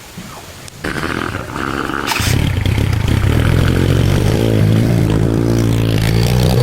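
SYM EZ 110 scooter's small single-cylinder engine being cranked for about a second and a half, then catching a couple of seconds in and running steadily: the bike that would not start now starts and keeps running.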